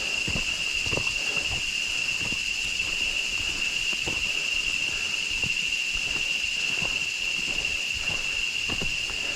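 A steady, high-pitched insect chorus, with irregular footsteps thudding along a jungle trail.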